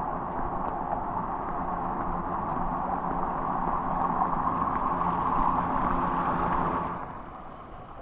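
Steady rush of flowing water, dropping off sharply about seven seconds in.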